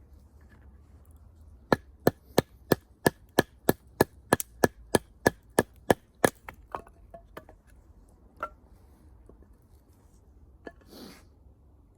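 Firewood being split: a quick run of about fifteen sharp wooden knocks, roughly three a second, then a few fainter knocks and a brief hiss near the end.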